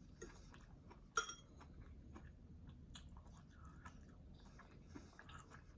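Faint close-up chewing and mouth sounds of someone eating rice noodles, with small wet clicks, and one sharp clink about a second in.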